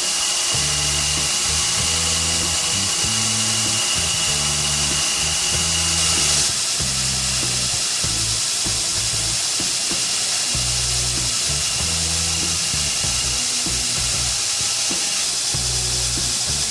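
A power tool running with a steady high whine and hiss, under background music with low bass notes; the tool's whine changes about six and a half seconds in.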